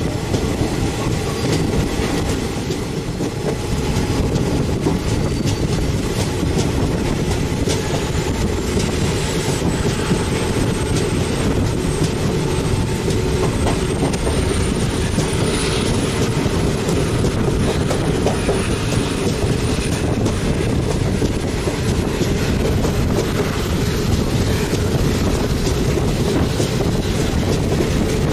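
Passenger train coaches running over the rails, heard from an open coach doorway: a steady rumble with clickety-clack from the rail joints. A faint, thin, high squeal, typical of wheel flanges on a curve, climbs slowly in pitch from about a quarter of the way in.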